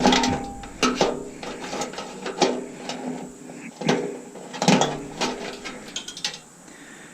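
Irregular metal clanks and knocks, some ringing briefly, as parts of a stainless steel Bunn-O-Matic coffee maker are worked loose by hand and with tools. The knocks thin out and it goes quieter near the end.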